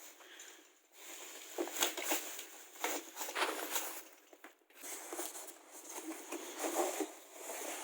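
Packaging of a boxed garden fireplace being opened: irregular rustling and crackling of wrapping and cardboard, with a few sharp clicks and knocks.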